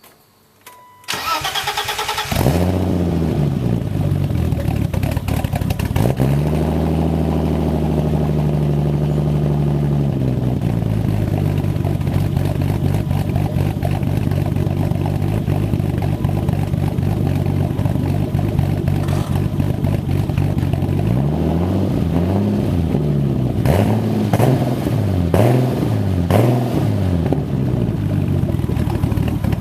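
Turbocharged stroker straight-six of a BMW E30 325ix, through a 3-inch stainless exhaust with the baffle removed. It cranks and fires about a second in, runs for a few seconds at a steady raised speed, and then settles into idle. Near the end it is blipped several times, each rev rising and falling.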